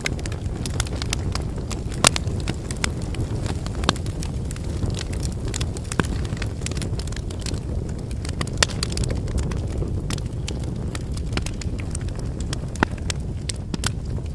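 Wood campfire burning: a steady low rush of flames with irregular crackling and popping from the burning firewood, a few pops standing out louder.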